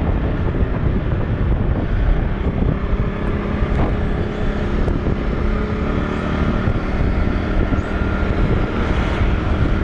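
Rented motor scooter running at a slow cruise, its engine and road noise steady under wind rushing over the microphone.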